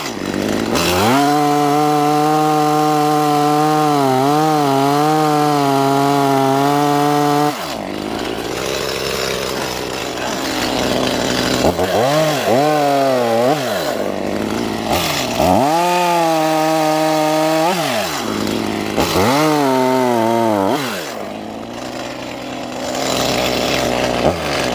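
Stihl chainsaw cutting wood at full throttle for several seconds, its pitch wavering as the chain loads up in the cut. It then drops back toward idle and is revved up and down three more times in short bursts.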